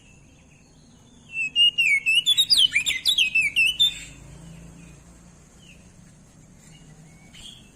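Crested white-eye (opior jambul) singing a rapid twittering phrase of many quick rising and falling whistled notes, about two and a half seconds long, followed by a couple of faint single notes.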